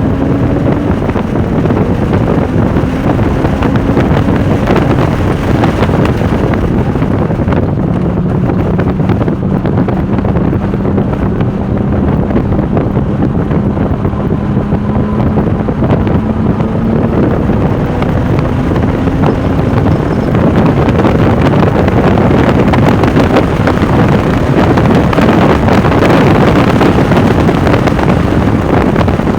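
Porsche 996 Turbo's twin-turbo flat-six running at speed on track, its engine note climbing slowly in pitch and dropping back several times, half buried under loud wind buffeting on the microphone.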